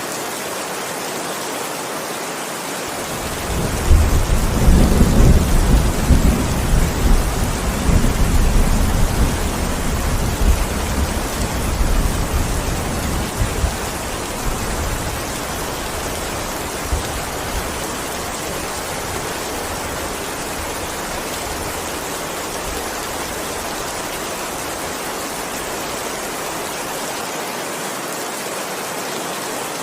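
Steady heavy rain with a long roll of thunder. The thunder starts a few seconds in, rumbles loudest for several seconds, then dies away slowly, leaving only the rain.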